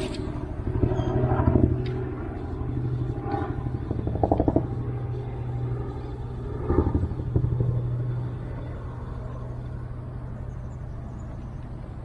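A motor engine running steadily with a low hum and rumble, with a few short knocks over it.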